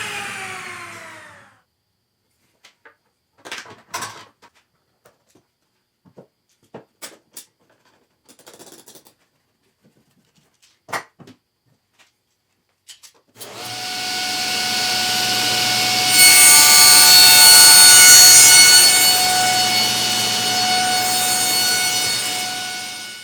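A power tool's motor winding down in falling pitch, then a string of light knocks and clicks from handling wood and tools. About thirteen seconds in, a power tool starts up and runs steadily, louder in the middle as it works through the wood, and stops abruptly.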